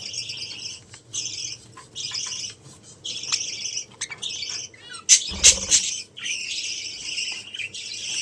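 Budgerigars chattering in repeated short, high warbling bursts, with a brief loud scuffle about five seconds in.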